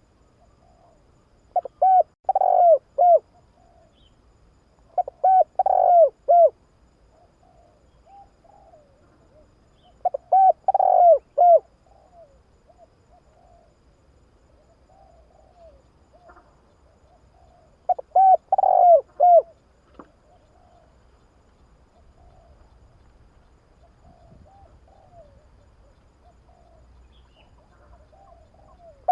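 Spotted dove cooing: four phrases of a few low, hooting notes each, a few seconds apart, with fainter short calls in between.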